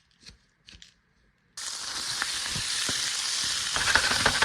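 A few faint ticks, then about a second and a half in oiled food starts sizzling and crackling in a hot skillet, growing a little louder near the end.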